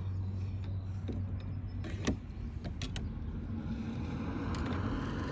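A few sharp clicks and light metal taps from hand tools, channel-lock pliers working a steering wheel tool, over a steady low hum.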